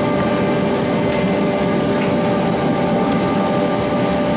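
Excursion train in motion behind a DA class diesel-electric locomotive: a steady rumble of wheels on the rails with a steady drone running under it.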